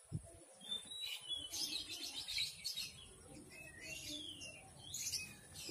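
Small birds chirping and twittering faintly, in two spells of quick high calls: one in the first half and another near the end.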